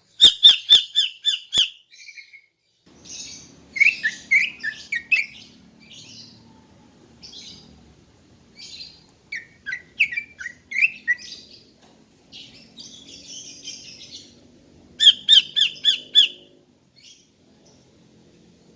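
Female cucak ijo (green leafbird) calling: a quick run of five or six sharp repeated notes at the start and again near the end, with chirps and short falling notes in between. A faint low hum sits underneath from about three seconds in.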